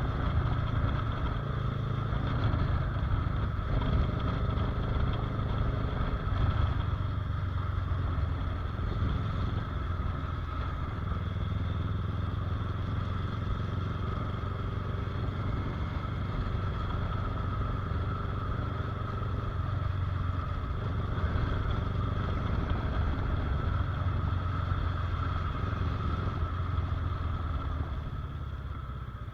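Motorcycle engine running steadily under way, easing off near the end.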